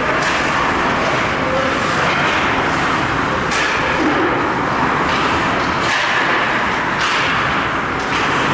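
Ice hockey game in a rink: a steady wash of skate and crowd noise, with four short sharp scrapes or knocks from skates, sticks or the puck.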